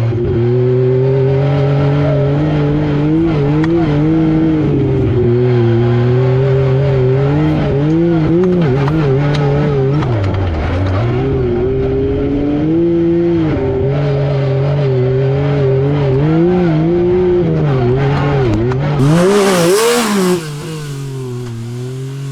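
Yamaha YXZ1000R SS side-by-side's inline three-cylinder engine under changing throttle, its pitch rising and falling again and again as it accelerates and backs off. About three seconds before the end, a loud rushing noise lasts just over a second, and then the overall sound is quieter.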